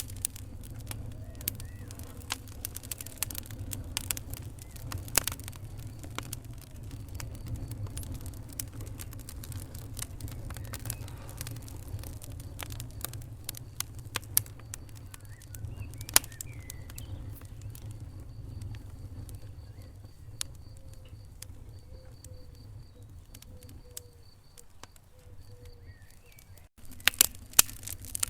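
Wood fire crackling in a fireplace: sharp pops and snaps over a low steady rumble of the flames. The pops thin out for a while, then come thick again near the end after a brief dip.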